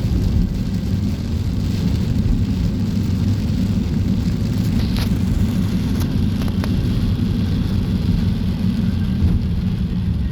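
Sudden heavy tropical downpour on a street: a steady, dense rush of rain with a deep rumble. A few sharp clicks come about five to seven seconds in.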